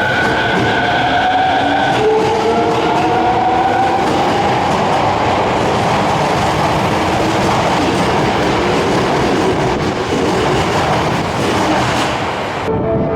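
Subway train pulling out of an underground station. The traction motors' whine climbs in pitch over the first few seconds as the train accelerates, then the cars run past with steady wheel-on-rail noise.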